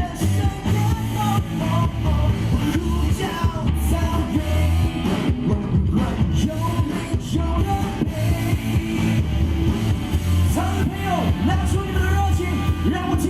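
Live rock band playing an upbeat pop-rock song, with a steady drum beat and bass under a wavering melody line.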